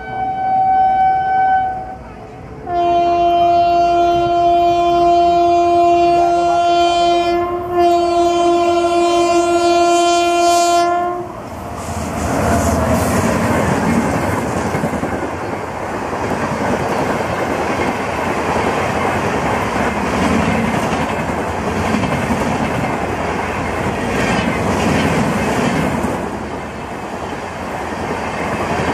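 An Indian Railways electric locomotive sounds its horn as it approaches at speed: a short higher blast, then a long lower blast lasting about eight seconds with a brief break near its middle. Then the Mumbai Rajdhani Express passes close by at full speed, its coaches making a loud steady rushing of wheels on rails.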